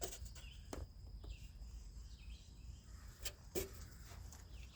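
Faint outdoor ambience: a steady high insect drone with a few short bird chirps, plus a few soft clicks.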